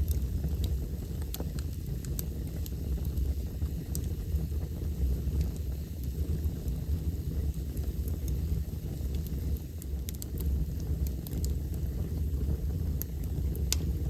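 Wood fire burning in a fireplace: a steady low rumble with scattered sharp crackles and pops, one louder pop near the end.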